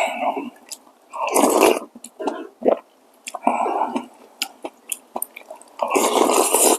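A person eating ramen close to the microphone: chewing and mouth noises come in three longer noisy bursts, with short clicks in between.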